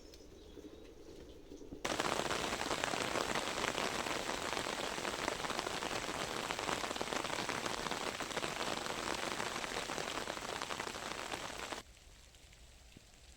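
Steady rain falling, a dense pattering of many drops. It starts suddenly about two seconds in and cuts off suddenly shortly before the end, leaving only faint background.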